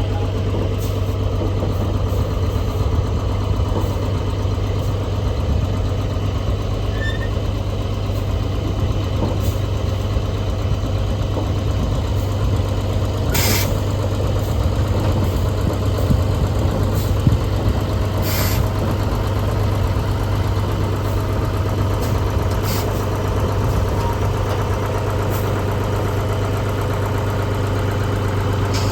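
Heavy truck's diesel engine running steadily with a deep, even drone, and a few brief clicks.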